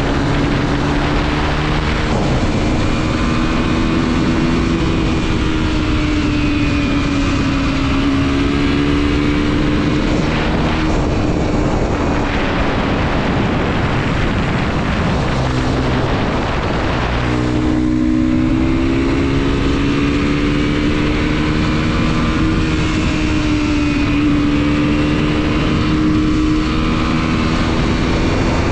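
Mondial SMX 125 motorcycle's single-cylinder engine on the move, its pitch rising and falling as it revs through the gears, with wind rushing over the microphone. The engine note drops off twice, about ten and fifteen seconds in, then pulls up again from about seventeen seconds in.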